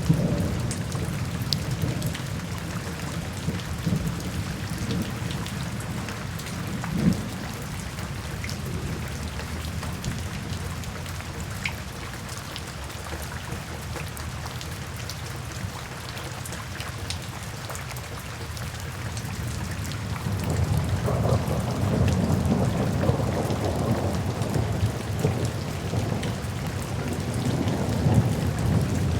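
Steady rain with a low rolling rumble of thunder that swells about two-thirds of the way through, and scattered sharp crackles from a wood fire.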